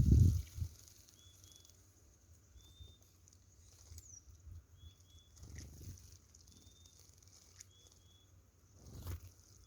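Outdoors birdsong: a small bird repeats short, flat, high call notes, often in pairs, over a steady high hiss, with one quick falling note in the middle. Low rumbling thuds come at the start, mid-way and just before the end; the one at the start is the loudest.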